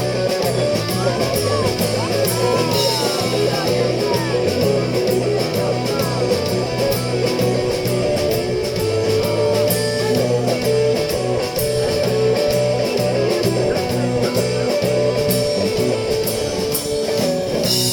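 Live rock band playing an instrumental passage, led by guitar over a steady drum beat and bass.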